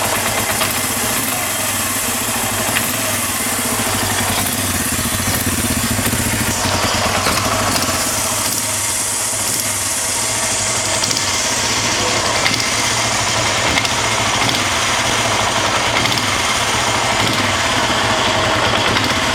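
Suzuki GS400 motorcycle engine running steadily, with a lively, even note and no abnormal noises, after its ignition timing and points have been adjusted.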